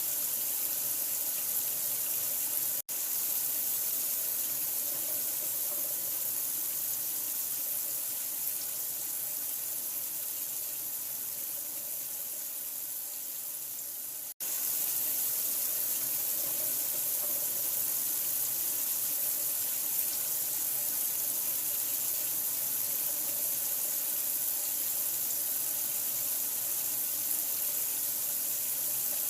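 Steady running water, an even rushing hiss, that cuts out for an instant twice, about 3 seconds in and about 14 seconds in.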